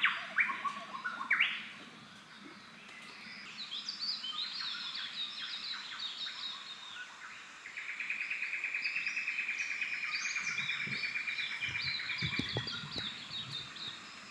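Several rainforest birds calling: a few loud rising calls in the first second and a half, then scattered chirps, and a fast, even trill from about 8 s that stops near 12.5 s. A few low thuds come near the end.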